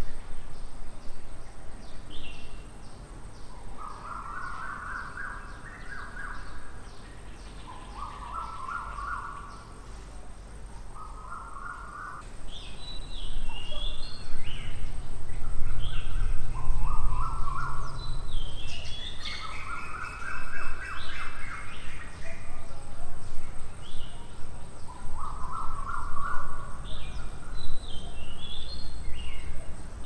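Garden birds singing: one bird repeats a short, rapid run of notes every two to three seconds, with higher chirps from others between them. A steady high whine runs underneath, and a low rumble comes in about halfway through.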